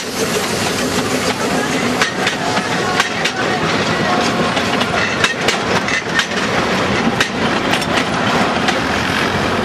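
Open passenger cars of a narrow-gauge steam train rolling past, with the wheels clacking irregularly over the rail joints.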